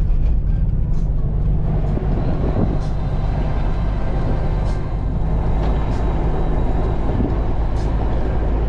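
A vehicle driving on a rough trail: a steady engine-and-tyre rumble, with a few light clicks and knocks scattered through it.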